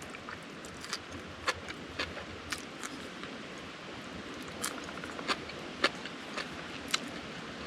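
Wood campfire crackling: irregular sharp pops, about a dozen, over a faint steady hiss.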